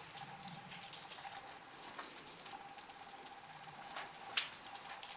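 Rain pattering and dripping, heard as scattered light ticks with a sharper drip about four seconds in.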